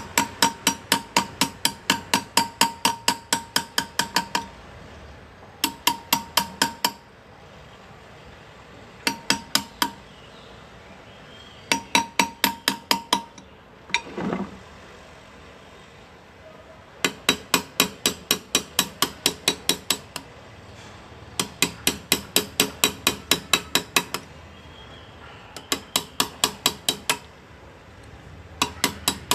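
Hand engraving on metal: a small hammer tapping a graver, about five sharp ringing metallic taps a second, in runs of one to four seconds with short pauses between.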